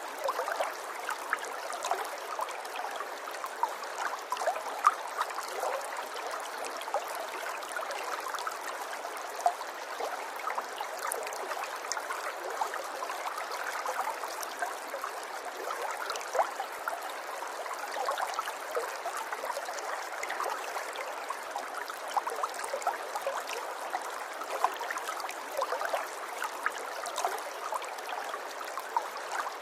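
River water running steadily, a continuous bubbling flow dotted with many small splashes and gurgles.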